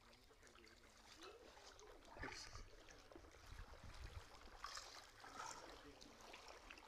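Faint flowing water trickling, with a few soft splashes now and then.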